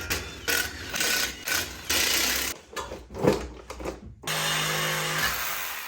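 A handheld power tool run in repeated short bursts on the truck's exhaust as it is taken apart. Near the end it runs steadily for about a second and then winds down.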